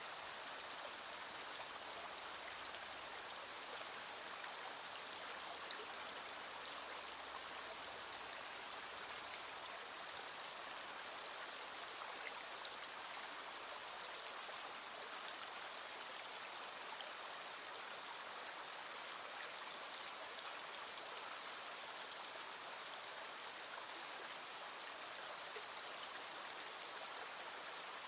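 Small stream flowing steadily, with scattered raindrops ticking faintly over it.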